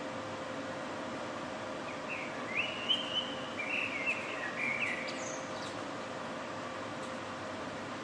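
A bird sings a short phrase of chirping notes, starting about two seconds in and lasting about three seconds, over a steady city background hiss with a faint hum.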